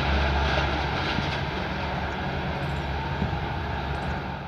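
Diesel-hauled passenger train running away down the line, a steady low rumble that slowly fades.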